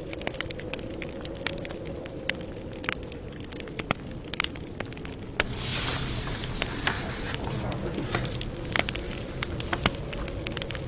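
Campfire crackling, with frequent sharp pops over a low steady rumble. About six seconds in, a short hissing swell rises and fades.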